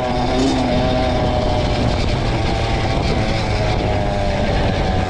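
Two-stroke Honda CR dirt bike engine running at a fairly steady speed, its pitch wavering slightly.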